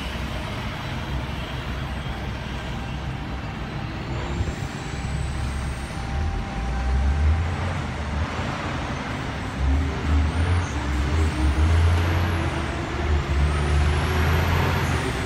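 Tangara electric train running through the station: a low rumble of wheels on rails that grows louder in the second half, with faint high whining tones rising and falling several times.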